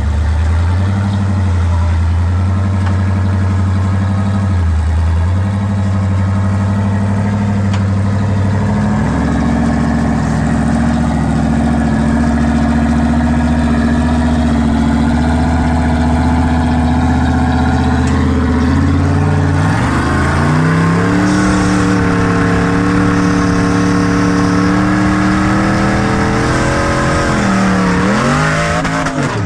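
Rock-crawling buggy engine working under load on a steep rock climb, held at a steady speed and revved up in steps about a third and two-thirds of the way through, then dipping and picking up again just before the end.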